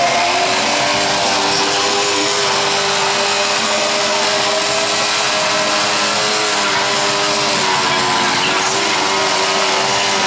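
MZ motorcycle's two-stroke engine held at high revs, a loud steady high-pitched running with a brief small dip in pitch about eight seconds in. It is being run flat out to kill it.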